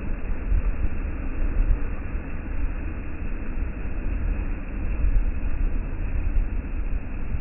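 Sea breeze blowing across the microphone: a continuous low rumble that rises and falls in gusts.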